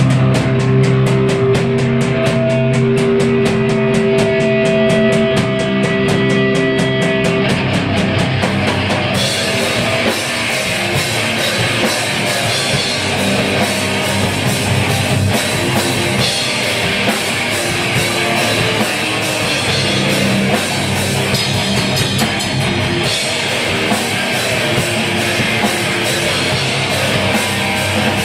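A hardcore punk band playing live and loud: distorted electric guitars and a drum kit. For the first several seconds guitar chords ring out over a fast, even drum beat; from about nine seconds in the whole band comes in harder, with cymbals crashing.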